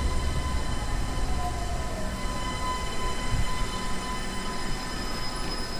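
Keisei AE-series Skyliner electric train pulling in along the platform and slowing to stop: a steady low rumble of wheels and running gear, with thin, steady high whining tones over it and a faint falling tone about a second and a half in.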